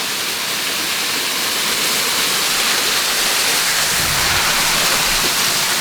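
Small waterfall splashing steadily, an even rushing hiss of falling water.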